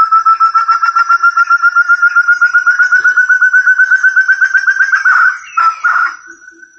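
Call of a forest partridge (burung terung, puyuh hutan): a fast run of clear whistled notes, about ten a second, slowly rising in pitch. It breaks into a few rougher notes about five seconds in and fades out near the end.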